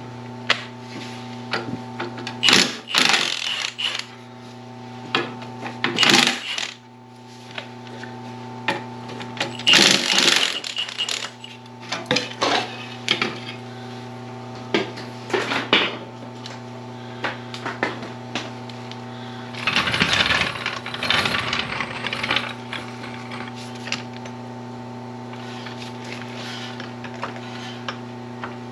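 Metal tools and steel parts clinking and clanking in scattered bursts while a drum cleaner bar is unbolted, with a longer spell of clattering about twenty seconds in. A steady hum runs underneath.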